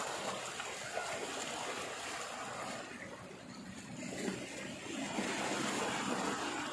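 Running water, a steady trickling flow.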